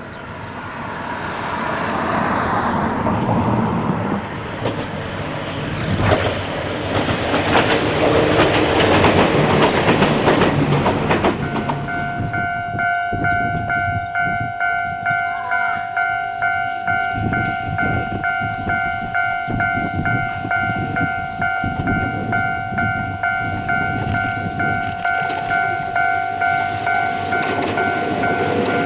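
An Ohmi Railway electric train runs past with a broad rush of wheel and motor noise. About twelve seconds in, a level crossing warning bell starts ringing with a steady, regular beat and keeps going.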